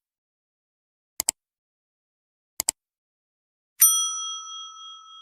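Three short double clicks about a second and a half apart, then about four seconds in a single bright bell ding that rings on and slowly fades, over dead silence: added sound effects.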